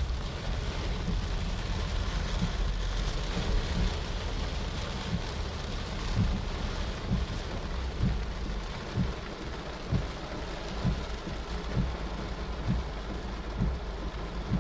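Heavy rain falling: a steady hiss of rain, with irregular low thumps underneath.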